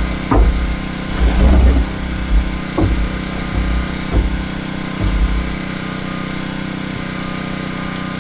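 A small engine running steadily at an even speed, with a few dull knocks and low thumps during the first half.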